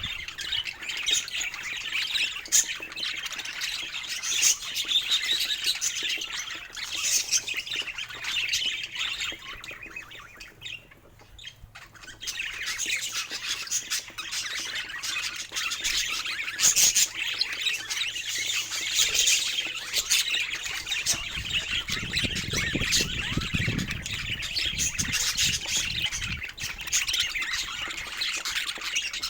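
Budgerigars chattering and chirping continuously in a busy warble, with a brief lull about ten seconds in.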